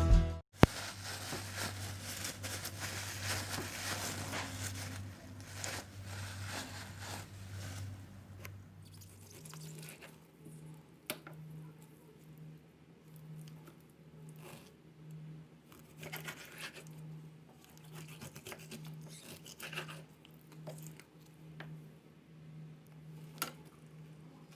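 Quiet kitchen work sounds: scattered scrapes, clicks and rustles of utensils and ingredients being handled over a low steady hum. The hum changes about nine seconds in to a lower-level, evenly pulsing drone.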